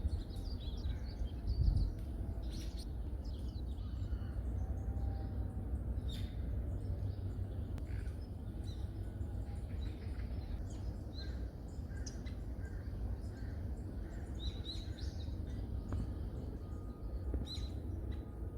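Forest birds calling, many short scattered chirps and calls over a steady low rumble, with one low thump about two seconds in.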